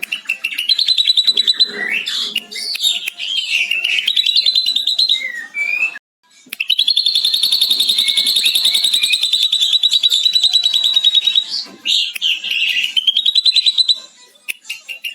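Ashy drongo singing, mimicking a lovebird's long rapid 'ngekek' chatter: fast high chirping notes, a brief break about six seconds in, then a long even trill lasting about five seconds, and more chattering near the end.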